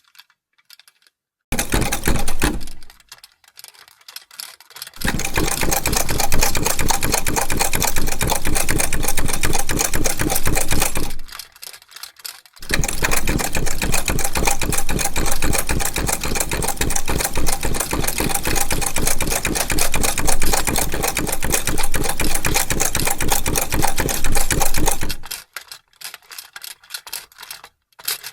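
Vintage sewing machine stitching at speed with a rapid, even clatter of needle strokes, in three runs: a brief burst, a run of about six seconds, then after a short pause a longer run of about twelve seconds. Scattered light clicks come between the runs.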